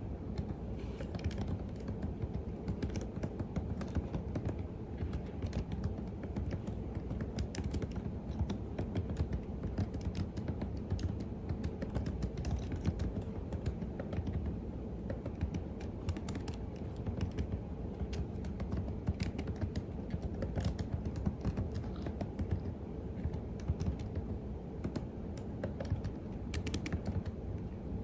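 Typing on a computer keyboard: continuous runs of key clicks at an uneven pace, over a steady low background hum.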